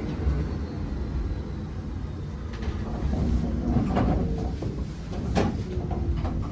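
Nagano Electric Railway 3500 series (ex-Eidan 3000 series) electric train heard from on board, running slowly with a low rumble and several sharp clanks and knocks in the second half.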